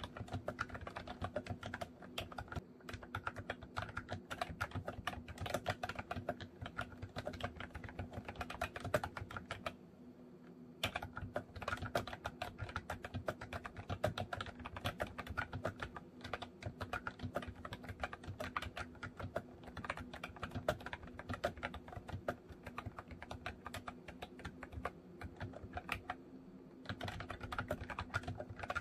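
Continuous typing on a MOFii Retro Style Candy keyboard: a dense, quick run of key clicks, with a brief pause about ten seconds in.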